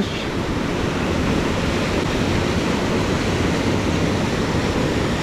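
Rushing mountain stream: a steady, loud wash of flowing water.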